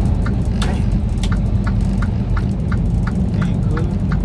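Semi-truck driving on the highway, heard from inside the cab: steady engine and road drone with a regular light ticking about three times a second.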